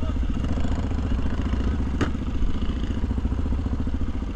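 Motorcycle engine running steadily, with a single sharp click about two seconds in.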